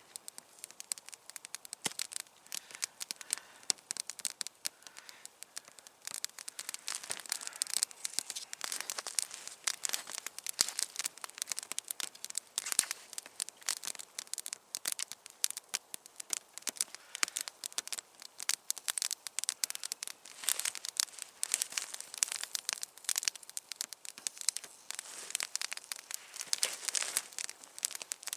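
Campfire crackling, with many irregular sharp snaps and pops.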